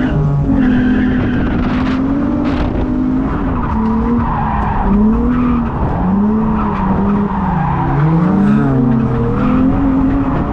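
Infiniti G35's VQ V6 engine revving up and down repeatedly as the car is driven hard through drifts, heard from inside the cabin, with tyres squealing in the slides.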